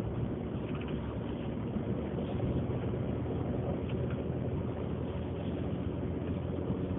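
Truck driving through deep snow, heard from inside the cab: a steady engine hum under an even rush of tyre and snow noise.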